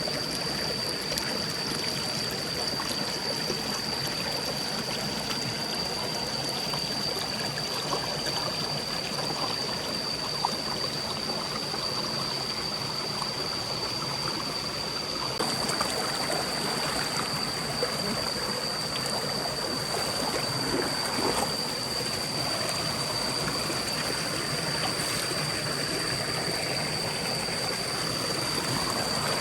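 Forest stream running, a steady rush of flowing water, with a thin high-pitched tone held steady above it. The water sound changes slightly about halfway through.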